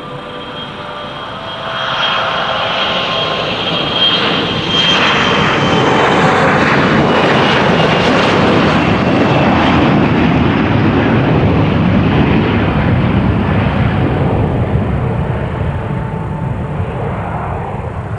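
Jet airliner engines passing close by: the noise swells over a few seconds, holds loud, then slowly fades, with a high engine whine that drops gradually in pitch as it goes by.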